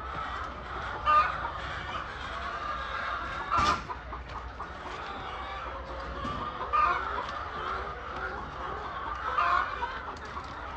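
A flock of laying hens clucking steadily, with four louder calls standing out over the chatter.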